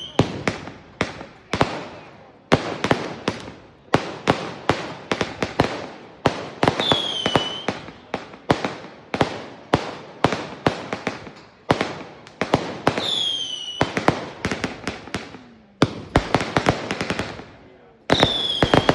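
Aerial fireworks bursting overhead: a steady run of sharp bangs and rapid crackling. Four times a short whistle falls in pitch.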